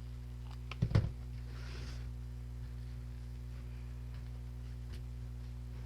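Steady low electrical hum, with two sharp knocks a little under a second in and a short soft rustle after them, from handling the flower pot and jute twine while wrapping it.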